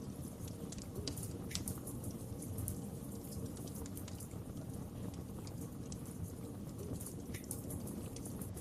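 Wood fire burning steadily, a low rumble of flames with irregular pops and crackles from the burning logs.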